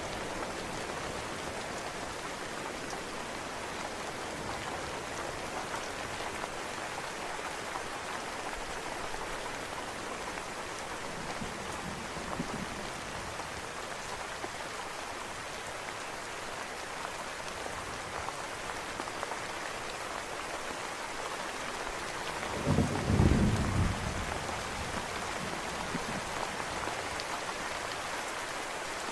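Steady rain with a faint distant thunder rumble about halfway through, then a louder, short thunderclap with a deep rumble a little before the end.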